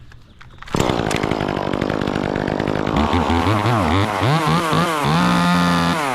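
Gas chainsaw starting up abruptly, idling unevenly for a couple of seconds, then revved up and down several times and held briefly at high revs.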